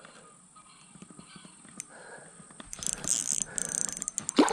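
Fishing reel clicking and whirring as a big smallmouth bass is played and reeled in: faint at first, then from about three seconds in a busy run of fast irregular clicks with rustling. A short rising sound comes near the end.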